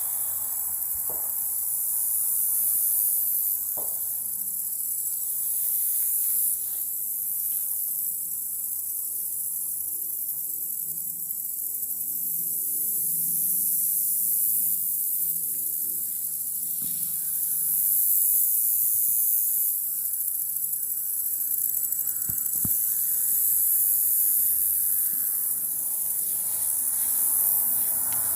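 Steady, high-pitched insect chorus that swells and fades in slow waves, with a few faint clicks.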